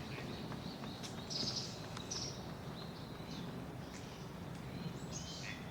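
Several short, high bird calls over a steady low background hum, the loudest about a second and a half in.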